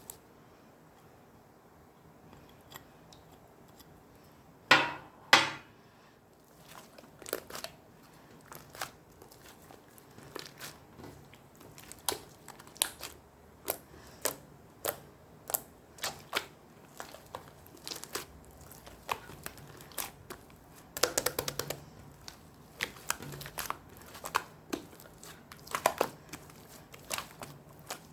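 Slime being played with by hand, giving a long run of sharp pops and clicks, with two loud pops about five seconds in and a dense cluster of them a little past the middle.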